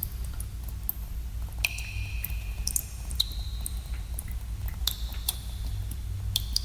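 Water drops falling in a cave: irregular single plinks, several each leaving a short ringing tone at a different pitch, over a steady low rumble.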